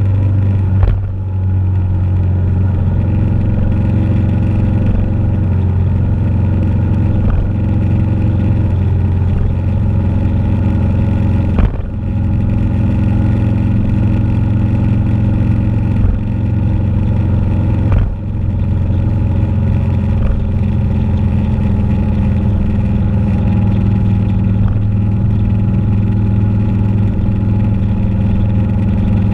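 Motorcycle engine running at a steady cruise, its pitch holding level, with a few brief dips in the sound.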